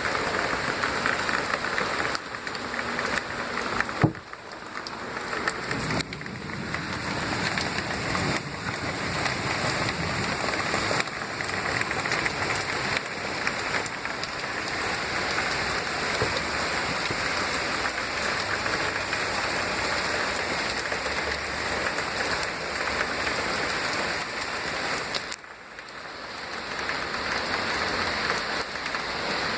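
Steady rain falling, an even hiss of drops hitting surfaces. A single sharp knock about four seconds in, after which the rain briefly sounds quieter, and another short dip in the rain's level near the end.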